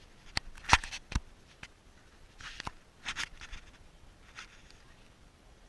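A handful of sharp knocks and clacks, the loudest a little under a second in, with short scraping or rustling sounds between them.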